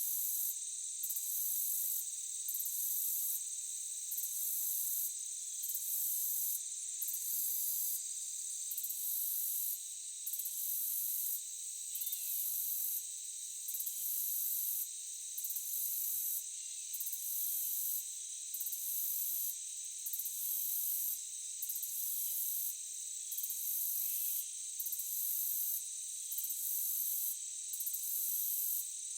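A forest insect chorus of crickets trilling: a steady, high-pitched hum with an upper layer that pulses on and off about once a second. A few faint chirps sit underneath it.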